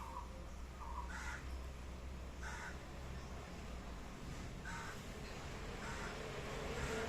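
A crow cawing repeatedly, short calls coming every second or so.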